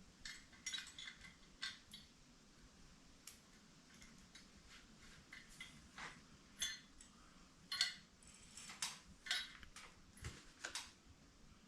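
Loose metal bolts and small hardware clinking as they are handled, in a string of light, irregular clicks, the louder ones in the second half.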